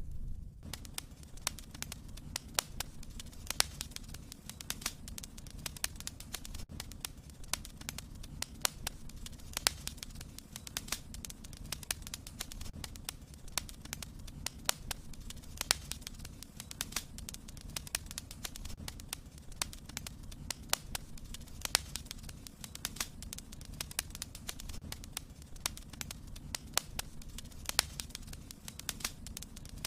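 Wood fire crackling in a fireplace: irregular sharp pops and snaps, several a second, over a low steady rush of flame.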